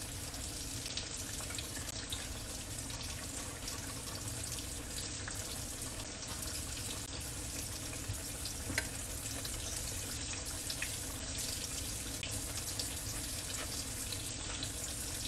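Steady sizzle of breaded eggplant slices frying in oil in a pan, with scattered small crackles and pops.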